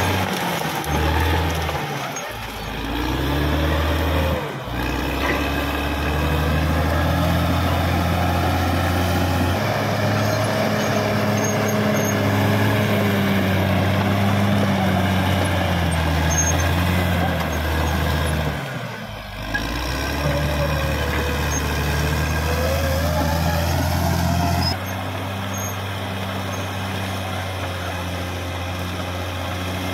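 CAT D6R XL bulldozer's diesel engine running under changing load, its pitch rising and falling. It dips briefly a few times and drops in loudness about 25 seconds in.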